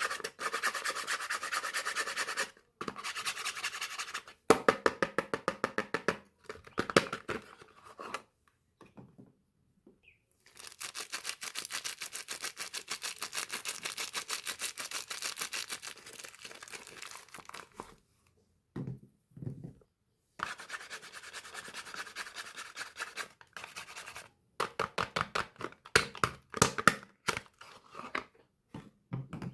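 Soap wrapping being handled and opened: runs of quick, even scratching and crinkling strokes that stop and start, with a few short pauses.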